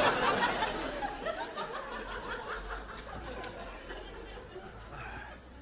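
Studio audience laughing, loud at first and dying away.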